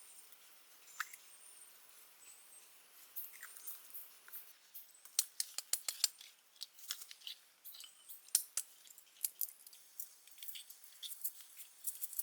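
A run of irregular small, crisp clicks and snips, starting about three seconds in and coming in quick clusters, some of them loud.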